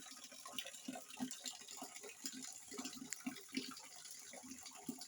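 Rainwater faintly dripping and trickling, with many small irregular drops.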